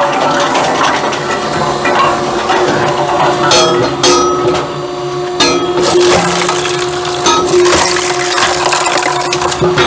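Firewood separator running with a steady hum while split camping firewood knocks and cracks apart inside it in a dense wooden clatter. Sharper knocks stand out about three and a half, four, five and a half, and seven seconds in.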